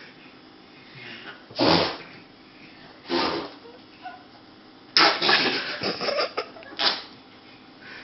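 Mouth-made fart sounds: raspberries blown through the lips in four bursts, the third the longest and loudest.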